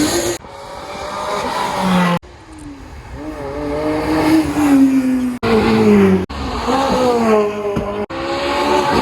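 Supercar engines revving, their pitch rising and falling, heard in several short clips that cut off abruptly one after another.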